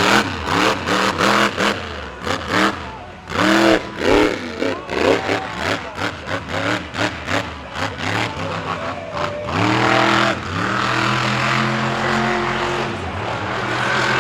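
Monster truck engine revving hard in quick repeated blips, its pitch jumping up and down. Near the ten-second mark it climbs and holds at high revs for a few seconds.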